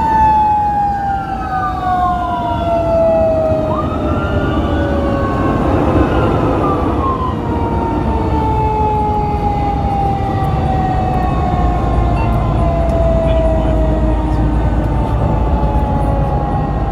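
Fire truck sirens on the move: a long siren tone slowly falling in pitch, heard twice, with a second siren rising and falling over it early on. A heavy truck engine and road rumble run underneath.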